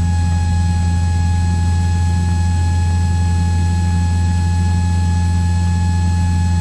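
Cessna 172's piston engine and propeller droning steadily in cruise, heard from inside the cockpit, with a thin steady whine over the low drone.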